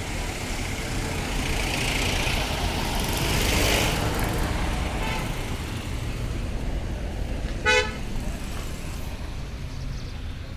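Road traffic running steadily, with a vehicle passing and swelling about three to four seconds in. One short vehicle horn toot, the loudest sound, comes about three-quarters of the way through.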